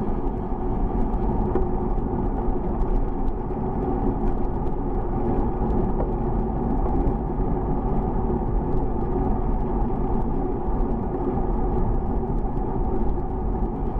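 Steady wind and road rumble picked up while riding a bicycle, with faint scattered ticks over a low, even roar.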